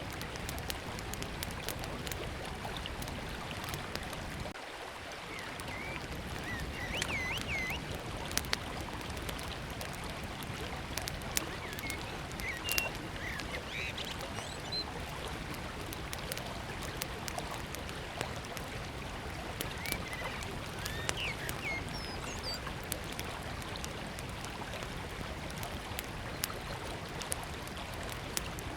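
Steady rush of a flowing river with a small wood fire crackling in sharp, scattered pops. A few short bird chirps come in small groups.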